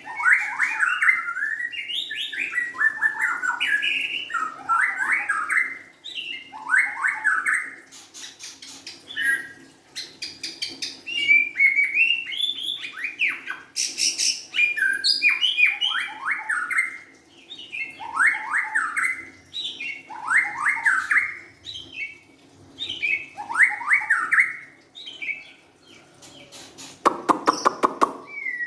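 White-rumped shama singing: short varied whistled phrases repeated every second or two, with stretches of rapid clicking notes and a rapid rattling burst near the end.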